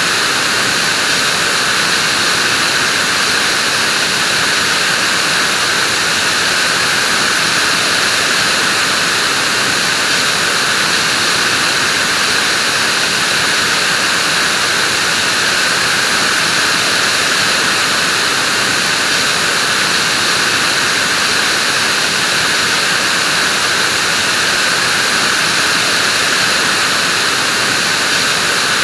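Vacuum cleaner running steadily, an even, unbroken whooshing hum with a hissy, high-pitched edge.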